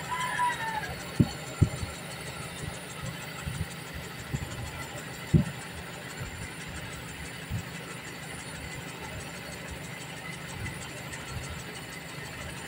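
Toyota 7K four-cylinder carbureted engine idling: a low, uneven throb, with a few louder low thumps about a second in and again around five seconds in.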